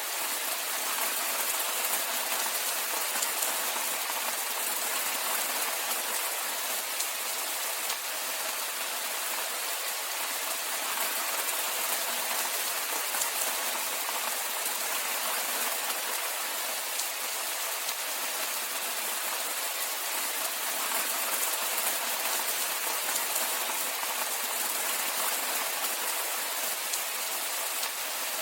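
Steady rainfall: an even, unbroken hiss of rain with no distinct drops standing out.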